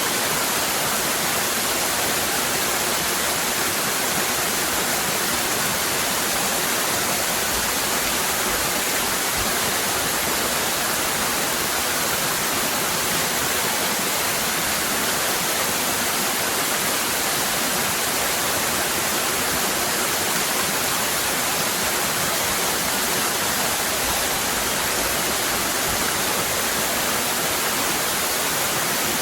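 Waterfall cascading: a steady, unbroken rush of falling water with a hiss that stays strong up to the highest pitches.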